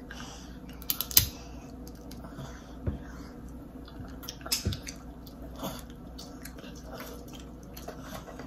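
Close-miked eating of a seafood boil: chewing and wet smacking with scattered sharp clicks, the loudest just after a second in.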